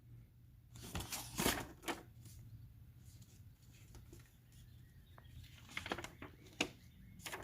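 Faint, scattered rustling and light clicks of objects being handled, in two short clusters about a second in and again near the end.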